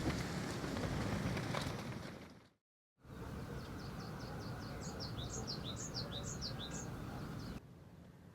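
Strong wind blowing, fading out after about two seconds. Then, after a break, a small songbird sings a quick run of short, high, down-slurred notes over a steady hiss.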